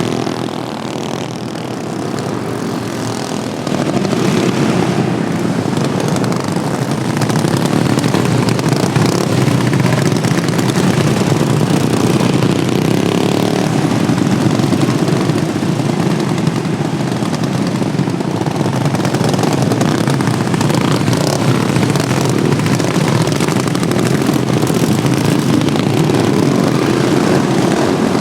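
Modified Wheel Horse racing lawnmowers' small engines running at speed as a pack laps the track. Quieter for the first few seconds, then louder and steady.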